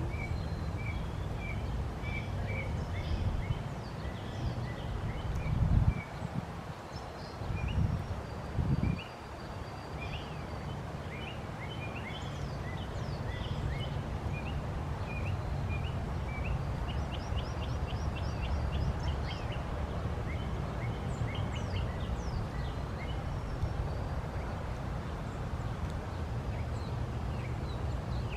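Backyard songbirds chirping and calling in many short, quick notes over a steady low rumble, with a few louder low thumps about six and eight seconds in.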